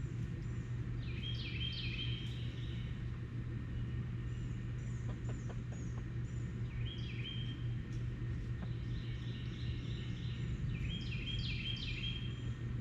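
High bird chirps in three short bouts, about a second in, around six to eight seconds, and again from nine to twelve seconds, over a steady low rumble.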